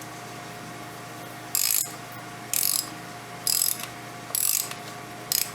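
Ratchet wrench clicking in five short strokes, about one a second, running down the threaded cap of a diesel fuel filter housing. A steady low hum sits underneath.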